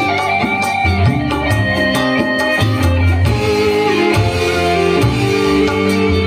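Dangdut koplo band playing an instrumental passage: an undulating melody line over bass and regular drum strokes, with no singing.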